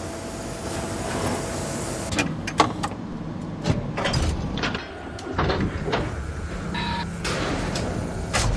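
Machinery running: a steady mechanical noise broken by repeated sharp clanks and knocks.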